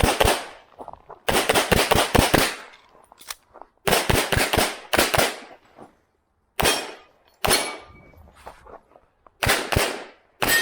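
Competition pistol firing quick strings of shots during a practical shooting stage: fast groups of several shots, with short pauses between the strings.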